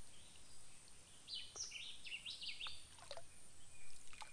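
Faint outdoor ambience with a bird calling a run of quick descending chirps in the middle, plus a few light clicks as a cup is dipped into shallow water.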